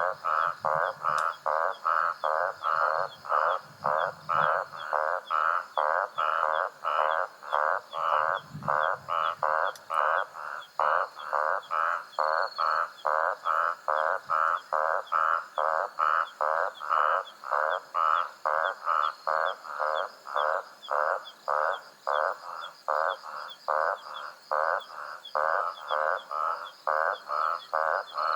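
A frog calling over and over, about two rattling croaks a second in an even rhythm, over a faint steady high hum.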